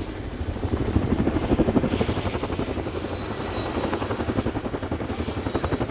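RAF Boeing Chinook HC.6 tandem-rotor helicopter flying its display, its twin rotors making a steady, rapid beat of blade slap.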